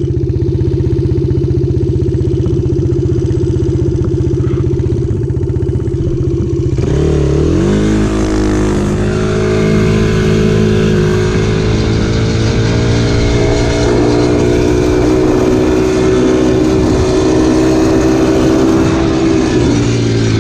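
Dirt bike engine running steadily at low revs. About seven seconds in it rises in pitch as the throttle opens, holds at higher revs while riding, and eases off near the end.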